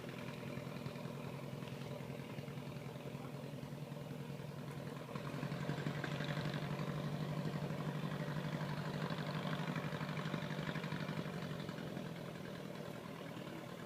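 1926 Ford Model TT's four-cylinder engine running steadily. It grows louder about five seconds in and eases off again near the end.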